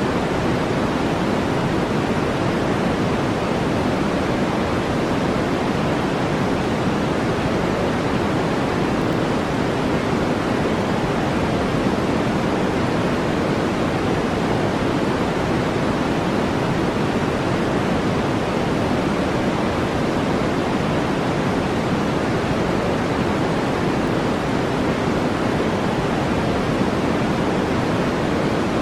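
Steady, unchanging brown noise: a deep, even hiss with most of its weight in the low middle and little at the top.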